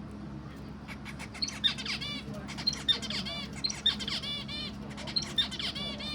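A bird singing the same short, high-pitched phrase four times, roughly every second and a quarter. Each phrase is a quick run of clicks and falling notes followed by a rapid string of chirps.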